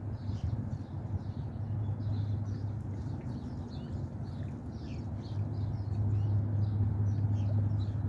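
Birds chirping in many short, high calls over and over, above a steady low rumble that grows louder in the second half.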